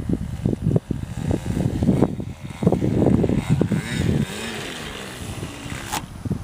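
Wind buffeting the microphone in irregular gusts of low rumble, easing off after about four seconds, with a sharp click near the end.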